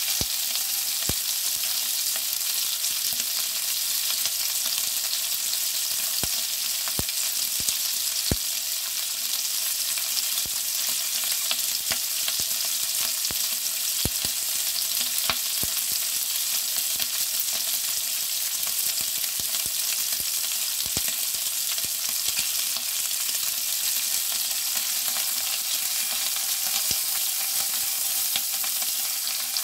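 Cut cocktail sausages and a piece of meat frying in a pan: a steady sizzling hiss with scattered sharp pops of spitting fat.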